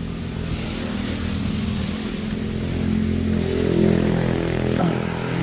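Motorcycle engine running under way, its pitch climbing between about two and a half and four seconds in as it accelerates, over a steady high hiss.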